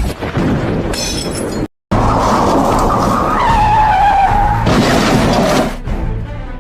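Dashcam recording of road traffic: loud tyre and road noise, then a tyre squeal that slides down in pitch for about a second and a half in the middle, followed by a bright noisy stretch with a crash and breaking glass.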